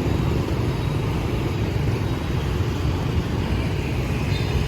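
Steady low rumble of street traffic, an even, unbroken noise with no single vehicle standing out.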